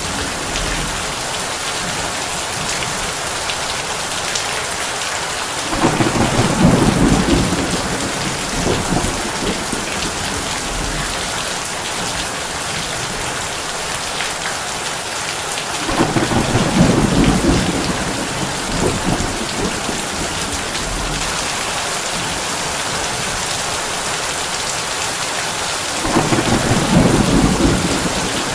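Heavy rain drumming on a tin roof in a steady hiss. Low thunder rumbles rise over it three times, about ten seconds apart, each lasting a second or two.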